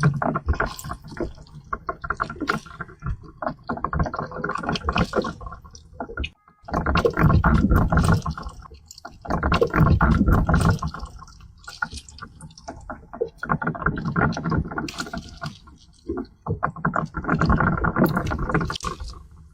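Wet squelching and crackling in uneven bursts a few seconds long, with a brief break about six seconds in.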